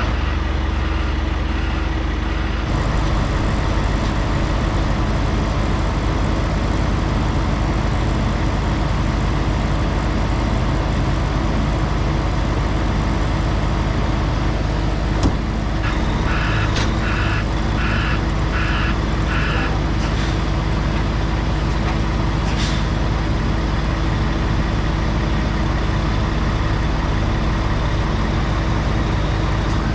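A heavy diesel truck engine running steadily, its note shifting about two and a half seconds in. A vehicle's reversing beeper sounds briefly at the start and again for a few seconds past the middle, at about two beeps a second. There is a sharp knock just before the beeps, and two short air hisses follow them.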